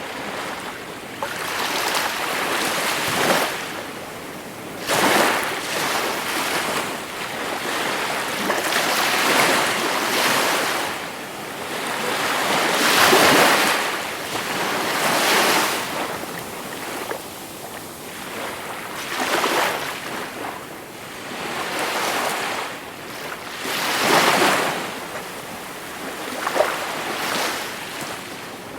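Gentle sea waves breaking and washing ashore, the surf swelling and easing every few seconds.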